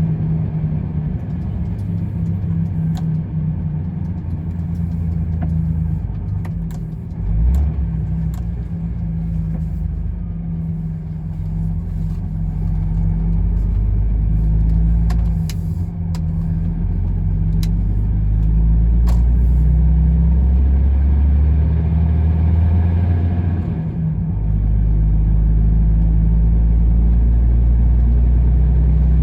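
Truck engine and drivetrain droning steadily while driving, the engine note shifting and getting louder in steps as it pulls, with a thump about seven seconds in and scattered light clicks and rattles.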